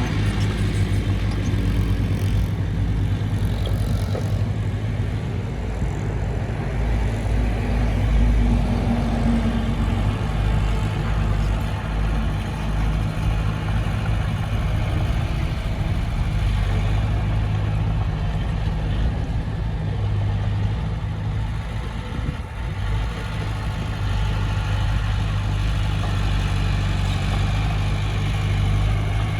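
Diesel engine of heavy earthmoving machinery running steadily under load. There is a brief rise in engine pitch about eight seconds in.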